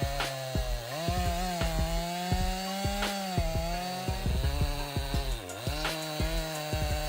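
Chainsaw engine running at high speed, its pitch sagging briefly and recovering twice, typical of the chain taking load in a cut. Short low thumps are scattered throughout.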